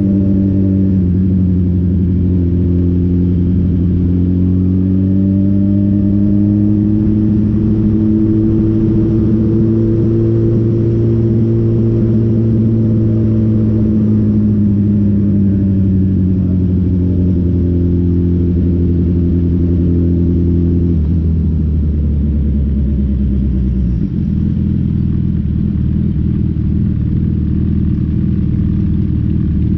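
Motorcycle engine running under way. Its note rises and falls slowly with the throttle, then drops and changes character about two-thirds of the way through, with a brief dip a few seconds later.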